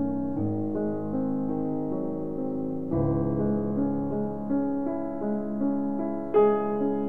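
Background piano music playing slow, sustained chords, with a new chord struck about three seconds in and brighter notes near the end.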